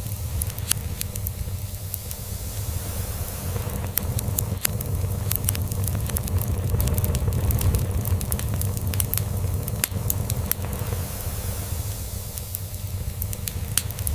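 Log fire crackling, with scattered sharp pops, over a steady low cat purr.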